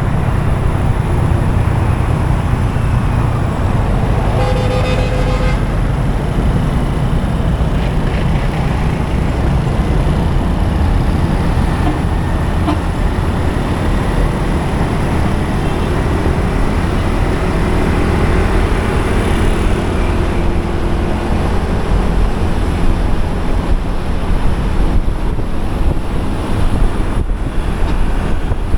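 Motorcycle riding in city traffic: a steady low engine rumble with road and wind noise. A vehicle horn sounds once, about four seconds in, for about a second and a half.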